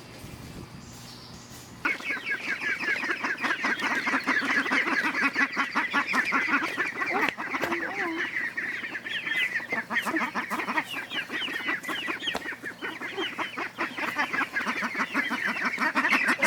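A flock of poultry calling noisily, many short calls overlapping several times a second. They start suddenly about two seconds in.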